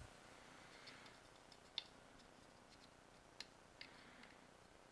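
Near silence with a few faint, light clicks of plastic model kit parts being handled and fitted together.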